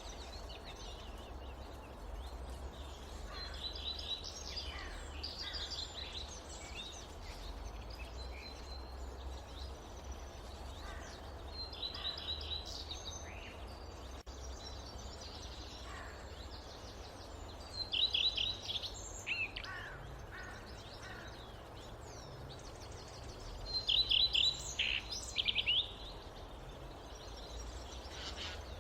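Songbirds singing in a forest: short trilled and chirping phrases, one after another, loudest about eighteen seconds in and again between about twenty-four and twenty-six seconds, over a steady low rumble.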